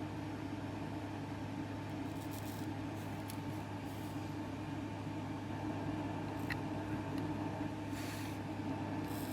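Steady mechanical hum of room machinery with a few fixed tones, broken twice by brief faint hisses.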